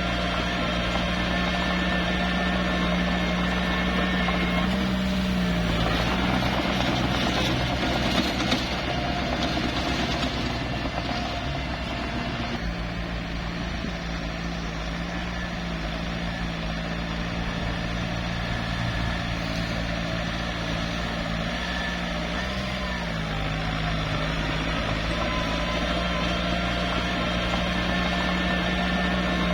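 Small bulldozer's diesel engine running steadily. Its note dips briefly about five seconds in and again about three quarters of the way through, as if under load. A rougher, noisier stretch comes from about six to twelve seconds in.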